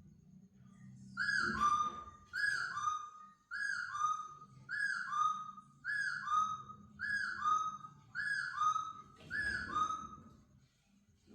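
A laughingthrush repeating the same clear two-note whistled phrase about eight times, roughly once a second. Each phrase steps down from a higher note to a lower one.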